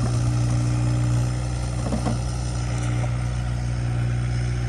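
Kubota excavator's diesel engine running at a steady, even pitch.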